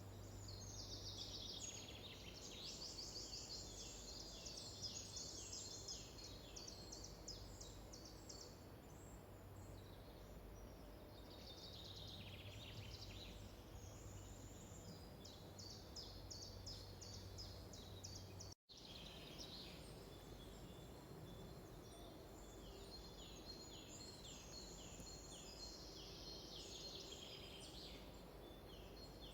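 Songbirds singing: several long phrases of rapid, repeated high notes, one after another. Under them runs a faint low steady hum, and the sound cuts out for an instant about two-thirds of the way through.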